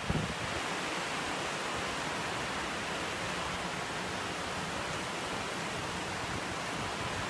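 Heavy rain pouring onto paved ground, a steady even hiss.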